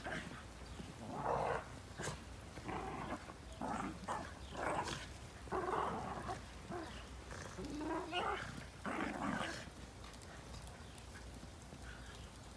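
Shiba Inu growling in play, in a string of short rough bursts about a second apart that stop about ten seconds in.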